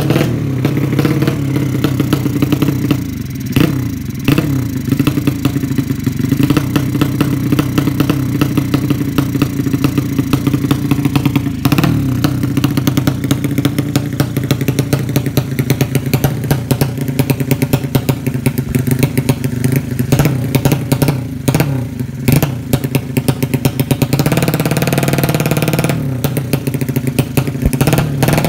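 Drag bike engine running loud at a fast, crackly idle with rapid uneven firing, as it is being set up; about 24 seconds in it holds a steadier, smoother rev for a couple of seconds before dropping back.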